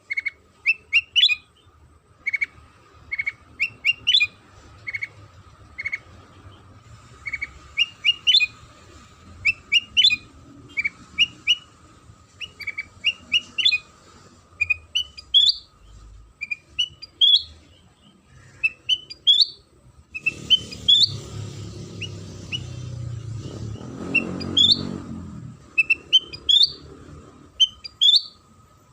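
Kutilang sutra songbird calling in quick clusters of short, rising chirps, over and over. A low rumbling noise joins in for a few seconds past the middle, and a faint steady hum lies underneath.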